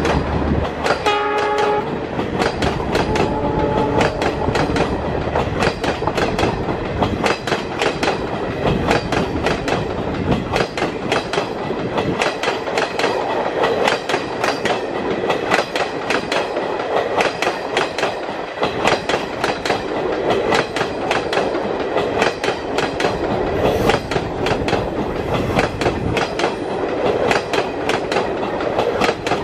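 Maharajas Express passenger coaches passing close at speed: a fast, rhythmic clickety-clack of wheels over the rail joints over a steady rush. About a second in, a short horn note sounds. The low rumble of the receding WDM3A diesel locomotive dies away in the first two seconds.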